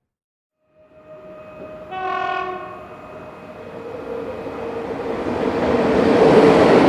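A train sounds a short horn blast about two seconds in, then its running noise builds steadily louder as it approaches.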